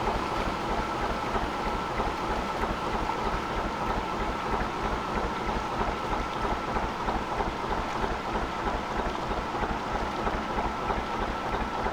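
Gardner 2LW two-cylinder diesel engine of a narrowboat running at a steady speed, with an even low thudding beat and a thin steady whine above it.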